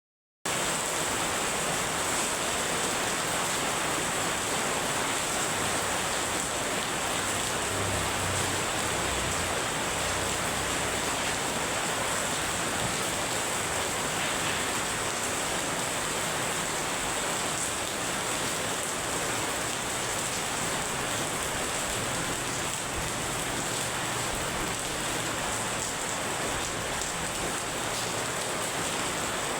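Very heavy rain falling, a dense steady hiss that starts a moment in and holds without a break.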